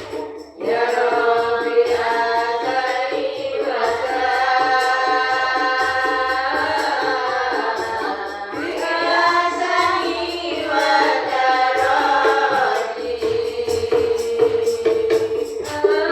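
A group of voices singing Diba' sholawat together in long, wavering held lines, over steady rhythmic frame-drum and tambourine percussion; the singing comes in about half a second in.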